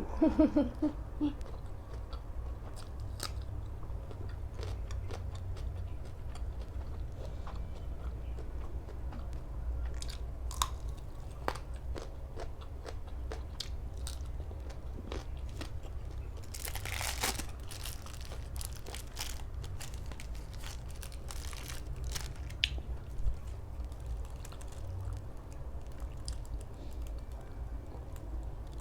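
Close-up chewing and biting of food, with scattered crisp crunches, from a meal of spicy pork salad with sticky rice and raw vegetables. One longer, louder crunch comes a little past halfway, over a faint low hum.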